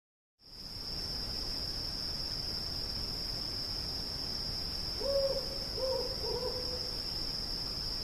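Cicadas chorusing: a steady, high, unbroken buzz that starts about half a second in. From about five seconds in, three short low calls from another animal sound over it.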